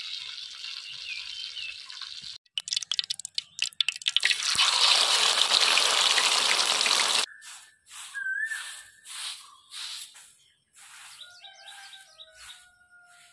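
A steady hiss with birds chirping, then crackling that swells into loud sizzling as a masala-coated quail fries in hot oil in a kadai, cutting off suddenly. After that comes a run of short broom strokes sweeping a dirt yard, with birds calling over them.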